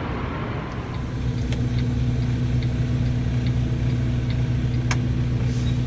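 Semi truck's diesel engine idling steadily, with a faint regular ticking over it and a single sharp click near the end.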